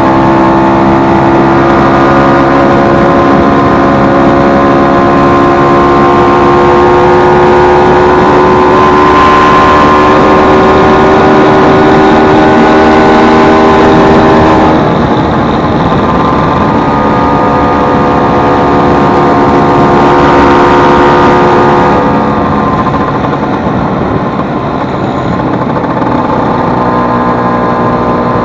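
Vespa 150 two-stroke single-cylinder scooter engine running steadily, its note dropping in pitch about fifteen seconds in and again about seven seconds later. The engine has just been repaired after its cush-drive gear broke and caused a loud noise.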